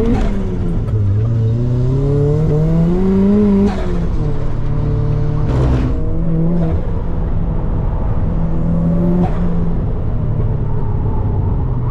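Car engine pulling away under load, its note climbing steadily for about three and a half seconds until an upshift drops it sharply. It then runs at a steadier pitch, with another drop a little after nine seconds.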